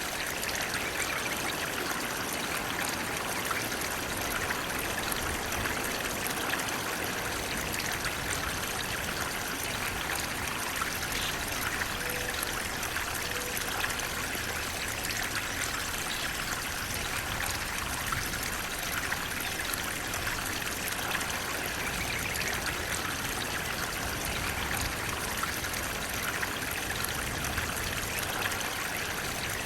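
Water flowing steadily, a continuous rush with trickling over it.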